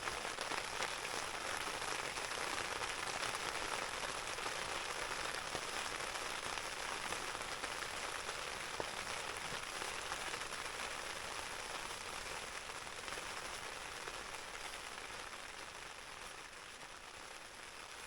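Steady rain pattering on a tarp overhead, easing slowly toward the end.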